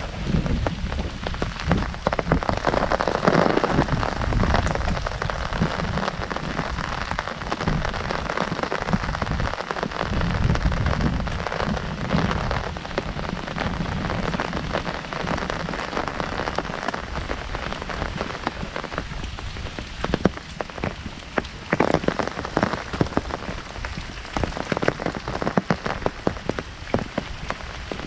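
Heavy rain falling on an umbrella overhead: a dense, steady patter of drops, with sharper single drop hits standing out more in the second half.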